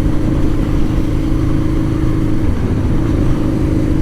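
Motorcycle engine running steadily while riding, with wind and road noise; the engine note drops slightly about two and a half seconds in.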